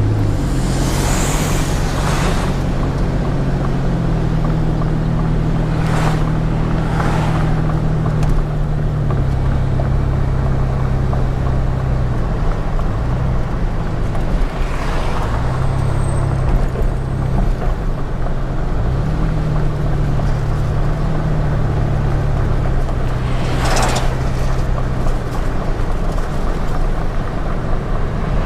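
Truck engine and road noise heard from inside the cab with a window rolled down. The engine's steady drone steps up and down in pitch several times as the speed changes, and a few short whooshes pass by.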